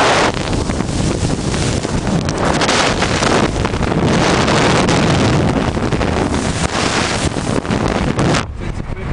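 Strong storm wind buffeting the microphone, a loud gusting roar with a low rumble underneath that drops off sharply about eight seconds in.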